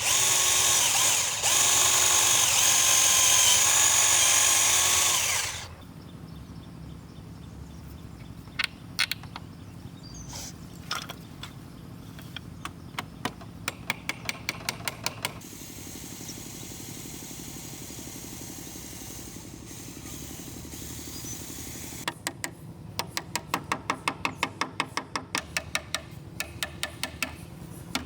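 Electric power drill running steadily under load, then stopping about five seconds in. After it come runs of rapid, light, evenly spaced taps.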